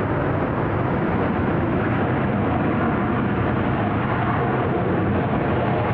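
Jet airliner engines running, heard as a steady, even rumble of jet noise.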